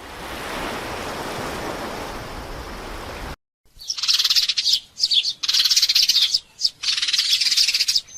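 A bird chirping in four short bouts of rapid, high-pitched trills in the second half. It is preceded by about three seconds of a steady hiss that cuts off suddenly.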